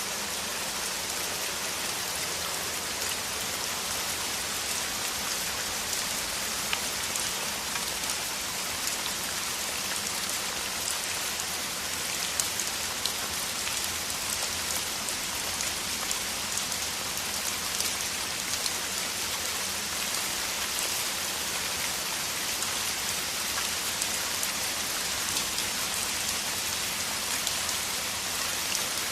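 Heavy rain falling steadily in a dense, even hiss, with scattered sharper drop ticks.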